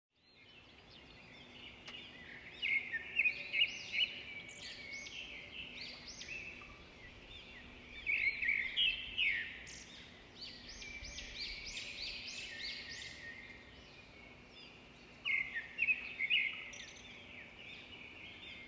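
Birds chirping and singing in several bursts of quick, swooping high notes, over a faint steady hum.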